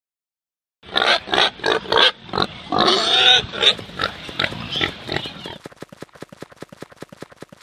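Pig grunting and oinking in a quick series, starting about a second in, followed by a fast run of faint light clicks that fades away near the end.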